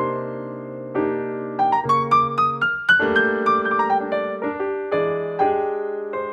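Solo piano music: struck notes over held low notes, with a quick rising run of notes in the middle.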